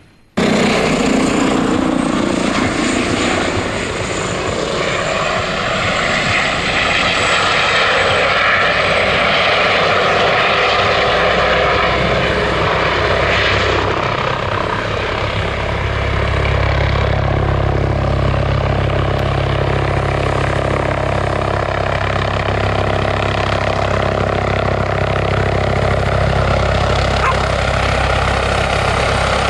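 Radio-controlled scale model helicopter running steadily, its rotor and drive making a continuous whine and rotor noise; a deeper low rumble grows stronger about halfway through.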